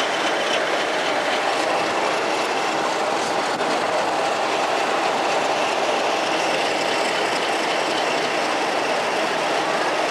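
Train running along the track, a steady rumble of wheels on rails with faint high wheel squeal.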